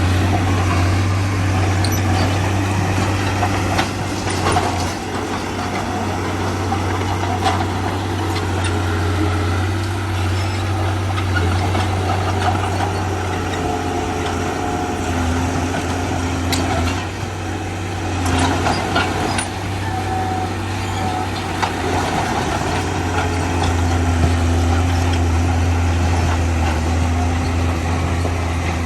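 Heavy diesel construction machinery running steadily, with a low engine tone throughout and several sharp clanks.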